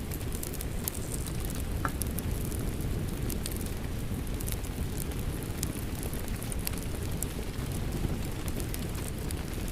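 Rain and a crackling wood fire together: a steady low rush of rain with frequent small, sharp crackles and pops from the fire.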